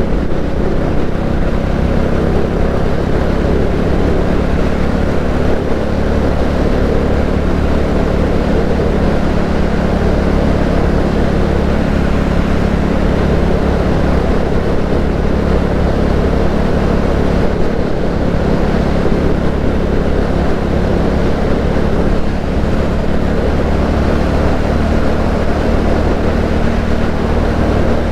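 Royal Enfield Classic 350's single-cylinder engine running at a steady cruising speed, under a constant rush of wind and road noise.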